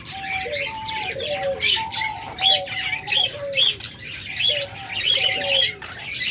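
Many captive doves cooing at once in short, overlapping level and falling notes, with a dense chatter of small cage birds chirping higher up.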